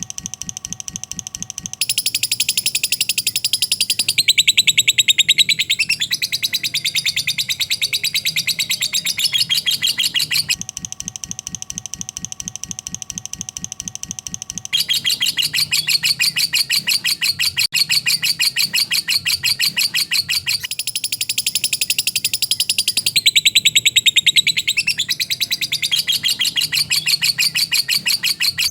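Lovebird 'ngekek': a long, fast, unbroken chattering trill of rapid high notes. It grows louder about two seconds in, drops back for a few seconds about a third of the way through, then returns at full strength.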